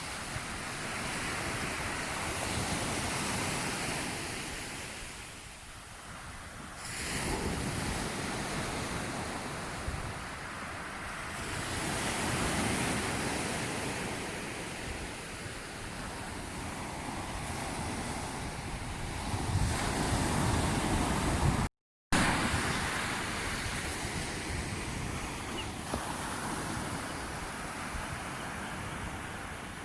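Sea waves washing in and drawing back, the rush swelling and falling every few seconds, with wind buffeting the microphone. The sound cuts out for a moment about two-thirds of the way through.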